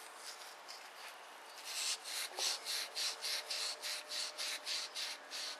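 Hand-scrubbing of a carbon-fouled diesel injector part: quiet handling at first, then rapid back-and-forth scrubbing strokes, about four a second, from a little under two seconds in.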